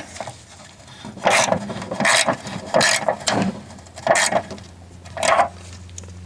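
About six short rasping strokes of a hand tool, roughly one a second, as the tensioner on a lawn mower's drive belt is tightened to put tension back on the new belt.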